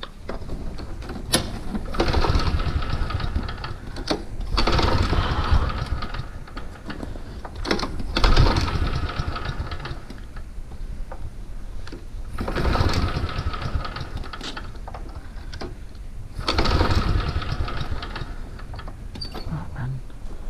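A small motor running in five short bursts of about two seconds, roughly every four seconds, with a rapid mechanical chatter.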